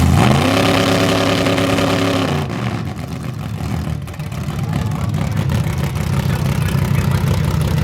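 A race car's engine revs up sharply, holds high revs for about two seconds, then drops away, while other engines idle and rumble underneath.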